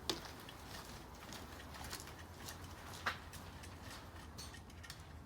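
Faint, scattered clicks and taps of parts being handled, over a low steady hum. The two sharpest clicks come right at the start and about three seconds in.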